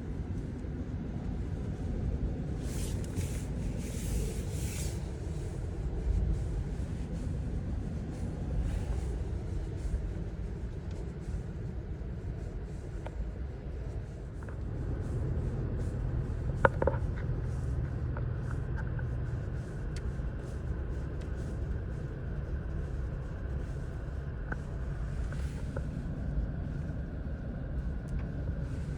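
Strong Santa Ana wind gusting, buffeting the microphone with a heavy low rumble and rushing hiss in the stronger gusts. A short sharp clack is heard just past the middle.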